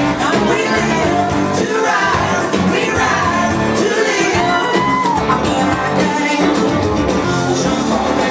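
Live band playing a song with a singer's voice over the band, loud and continuous.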